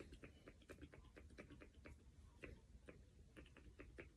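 Faint, irregular light clicks and taps of small handling noises, several a second.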